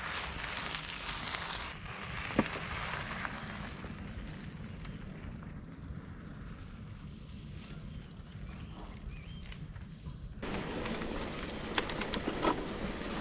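Small birds chirping in a row of short, high calls through the middle, over a steady rustling noise. There is a sharp knock about two and a half seconds in, the noise rises suddenly near the end, and a few clicks follow.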